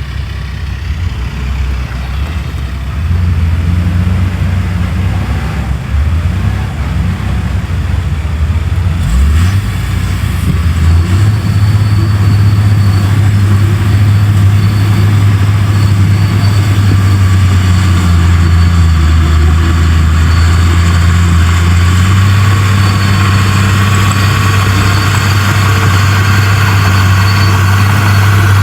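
Heavy diesel engine running, getting louder about three seconds in and again around eleven seconds, then holding a steady low drone.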